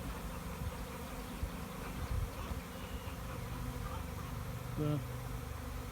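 A swarm of honey bees buzzing steadily as thousands of them fly around and move into a swarm trap, with a brief louder buzz near the end.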